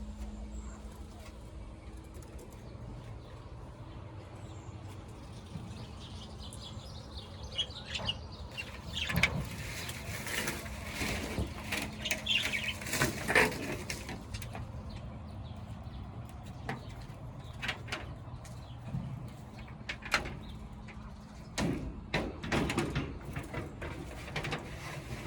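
Pet lovebirds and budgies chirping in a cage, in bursts that are busiest a third of the way in and again near the end, over a steady low hum.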